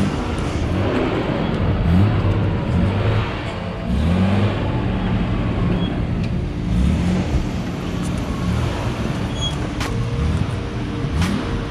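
Off-road 4x4 engine revving, rising and falling repeatedly as it works slowly over rock, with a few sharp knocks near the end.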